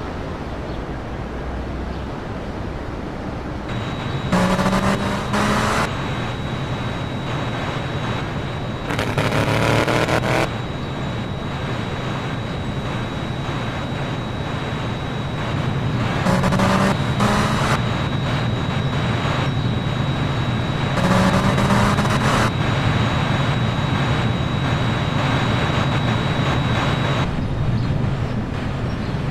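Race cars passing at speed, four loud passes with the engine note sweeping, over a steady low rumble of engines.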